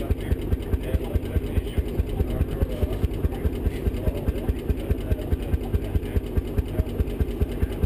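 1921 Lanz Bulldog's 6-litre single-cylinder hot bulb semi-diesel engine running at a steady idle, firing in an even, rapid beat.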